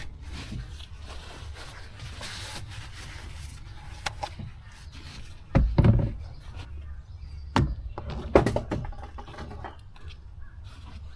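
A few sharp knocks and clunks, as of items being handled under the hood while oil is topped up, over a steady low rumble. The loudest clunks fall a little past halfway, with more a couple of seconds later.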